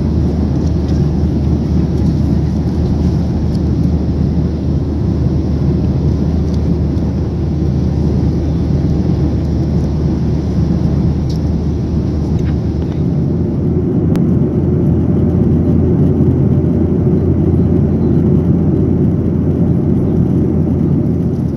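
Steady, loud rumble of a Boeing 737-800's CFM56 jet engines and airflow heard inside the passenger cabin. About 13 seconds in, the higher hiss drops away and the low rumble changes slightly, as with a change in engine power or airflow.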